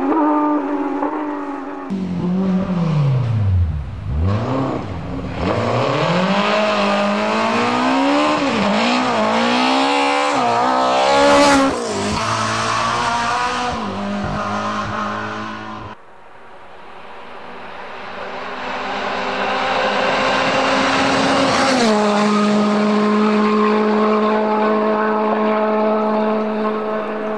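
Rally car engines at full throttle on a stage: one car's engine revs up and down hard through quick gear changes, with a sharp crack about eleven seconds in. After a sudden break a second car's engine grows louder as it approaches, then holds one steady note.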